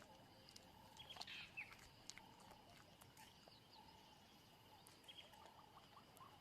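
Near silence: faint outdoor wildlife ambience with a few soft high chirps and small clicks.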